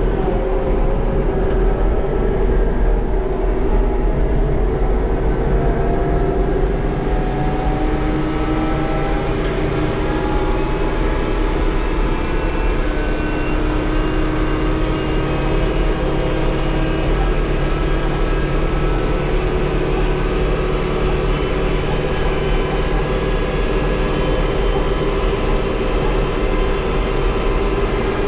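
Tractor engine running steadily as the tractor is driven along, a continuous low rumble with a steady engine note.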